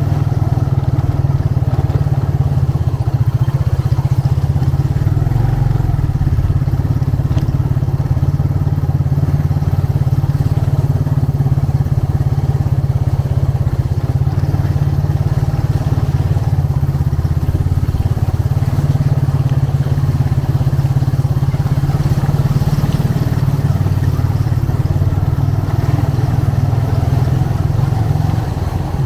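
Motorcycle engine running steadily on the move, heard from the rider's seat as a dense low rumble, easing off a little just before the end.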